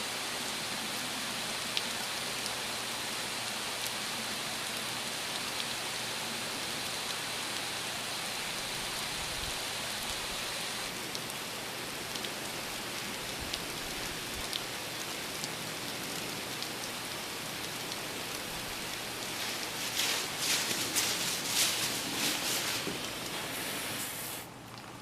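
Garden hose spray hitting a Coleman rain suit, a steady hiss of water like rain. About twenty seconds in it turns louder and uneven, crackling as the spray strikes more directly, then cuts off just before the end.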